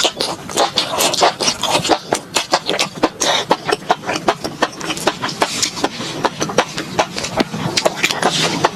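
Close-miked eating of fried enoki mushroom skewers: a rapid, uneven run of sharp chewing crunches and wet mouth clicks, several a second.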